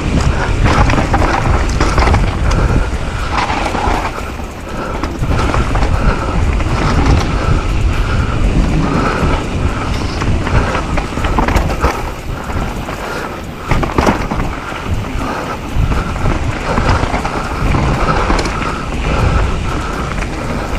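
Mountain bike riding down a dirt trail: wind buffeting the microphone with a steady rough rumble, tyres on dirt, and frequent knocks and rattles as the bike goes over bumps.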